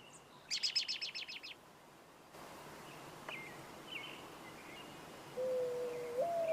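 Budgerigar chirping: a quick run of about ten sharp chirps in the first second and a half, then a few faint short chirps. A steady musical tone comes in near the end.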